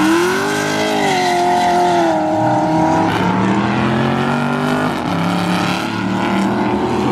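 A car engine held at high revs, its pitch rising and dipping, with the hiss of tyres spinning on pavement.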